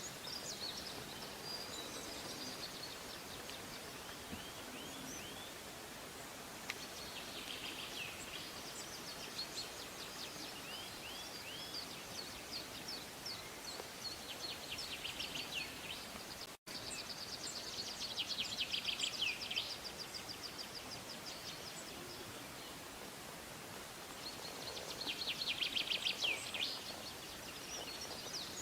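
Songbirds singing: many high chirps and short whistled phrases, with several bursts of fast, rapid trills, against a faint steady outdoor background. The sound drops out for an instant about halfway through.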